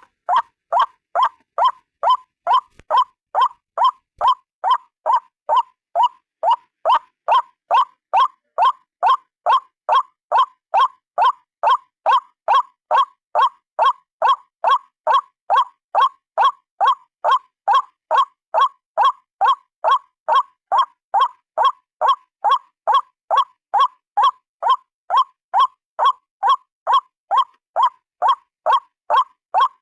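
White-breasted waterhen (ruak-ruak) calling a steady, unbroken series of short 'kwak' notes, about two a second.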